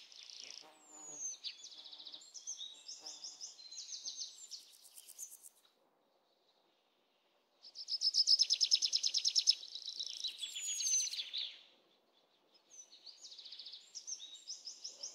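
Songbird singing in rapid trills and short falling whistles, in phrases that stop briefly twice, once near the middle and again about three-quarters through.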